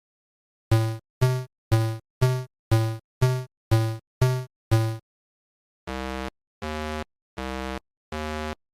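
Electronic synthesized tones: ten identical short notes, about two a second, each fading quickly, followed about a second later by a run of longer, steady, lower, buzzier notes evenly spaced with gaps of silence between them.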